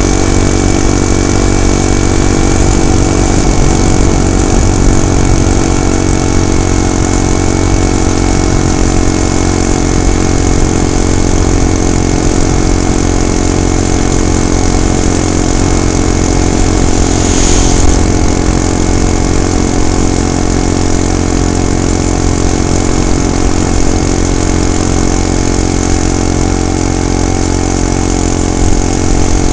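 Small gasoline engine of a home-built motorized bicycle running at a steady pitch, loud and close. A short rush of noise comes a little past halfway.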